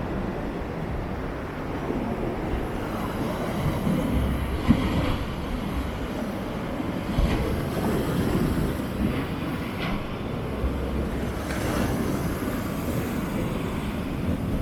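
Rough sea waves breaking and rushing up the shore, with wind buffeting the microphone in gusts.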